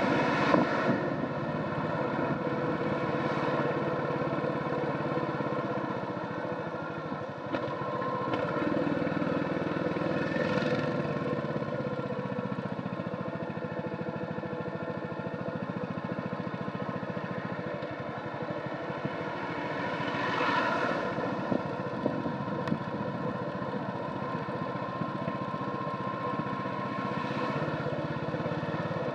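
Royal Enfield Hunter 350's single-cylinder 349 cc engine running steadily through its stock exhaust on the move, over a constant haze of wind and road noise. The sound swells briefly several times.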